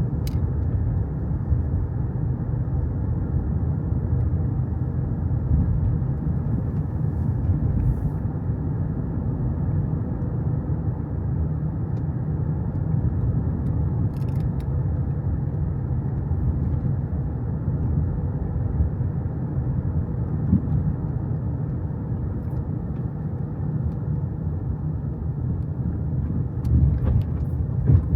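Steady low vehicle rumble, like road and engine noise of a moving car, growing slightly louder near the end.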